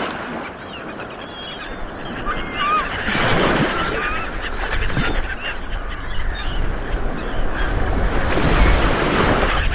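Ocean surf: waves rolling in and breaking, swelling about three seconds in and again near the end, with short calls of birds over the surf in the first few seconds.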